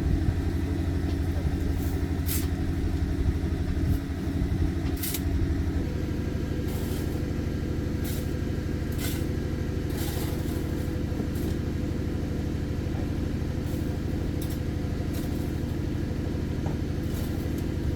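An engine running steadily; its note changes about six seconds in and then holds even, with scattered light clicks over it.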